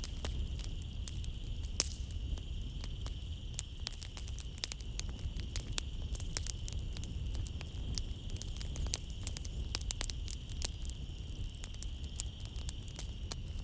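Wood fire crackling in a fireplace, with frequent sharp pops and a low steady rumble of the flames, over a steady high trill of night insects such as crickets.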